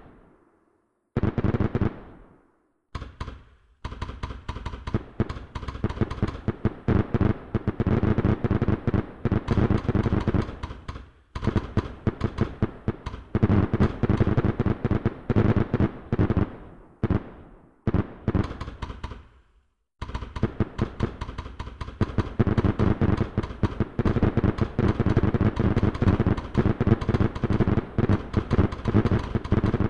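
Fireworks going off in rapid, dense strings of sharp bangs and crackles, many per second, breaking off abruptly a few times before starting again.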